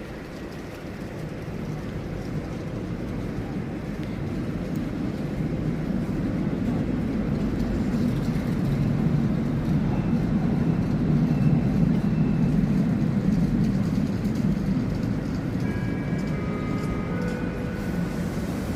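Electric locomotive EU200-005 moving during shunting: a low rail rumble that swells as it approaches and passes, then eases a little, with a few faint high tones near the end.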